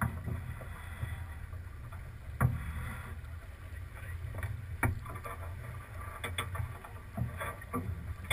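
Sailing boat under way: a steady low rumble of wind and water against the hull, broken by a few sharp knocks, the loudest about two and a half seconds in and another near five seconds.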